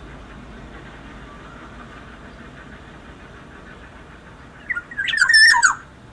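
Black-naped oriole (kepondang) giving one loud call near the end: a short note, then a longer wavering phrase of about a second.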